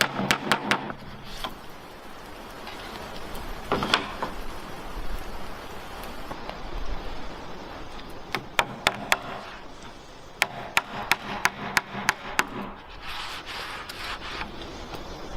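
Runs of sharp, quick knocks and clicks, several a second, with rubbing and scraping between: hard objects being handled and knocked together.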